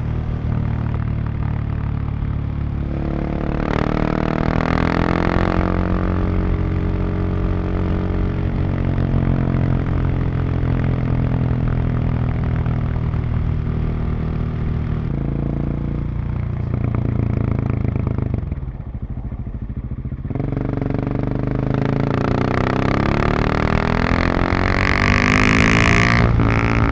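Husqvarna 701 supermoto's single-cylinder engine and exhaust under way, the pitch rising and falling with throttle and gear changes. About two-thirds of the way in the note falls away as the throttle closes, then it pulls up again.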